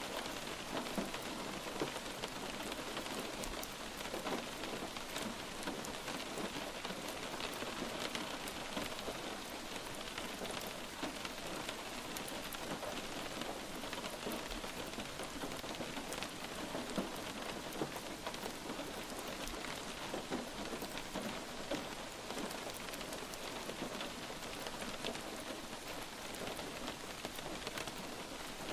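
Steady light rain, an even hiss dotted with many small drop ticks.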